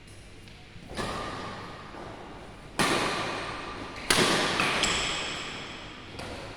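Badminton rackets striking the shuttlecock in a rally, three sharp hits a second or two apart, each ringing out in the echo of a large sports hall.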